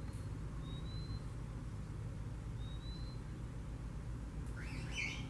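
A steady low rumble with faint, thin, slightly rising whistle notes repeating every second or two. Near the end, a short, louder bird chirp.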